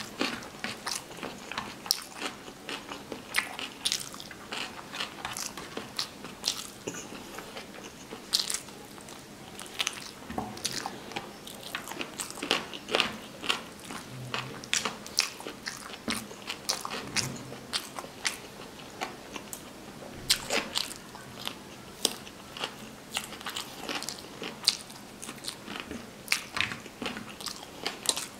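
Mouth sounds of a person eating rice and curry by hand: wet chewing with many sharp smacks and clicks, several a second.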